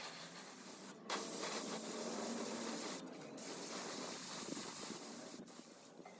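Paint being sprayed: a steady hiss broken by short pauses about a second in, at about three seconds and near five and a half seconds.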